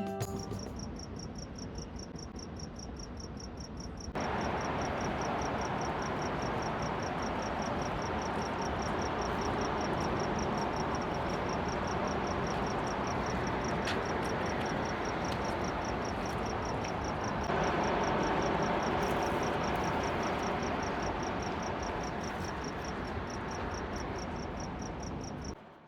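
Insects chirping in a fast, even, high-pitched trill over a steady rushing noise, which grows louder about four seconds in and again near eighteen seconds, then cuts off at the very end.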